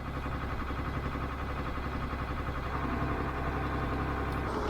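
Engine idling steadily, with a second steady tone joining about three seconds in, during the loading of a van onto a recovery truck's bed.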